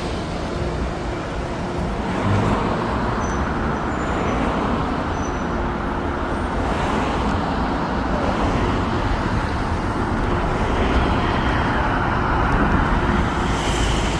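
Steady road noise from a motor vehicle in motion: engine hum and tyres on the road, a little louder from about two seconds in.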